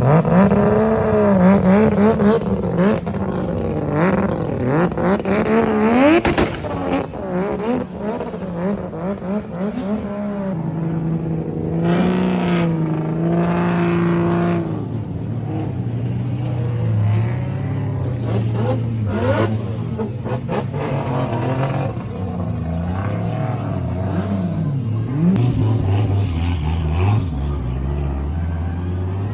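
Loud car engines revving in short rising and falling blips, then running lower and steadier in the second half.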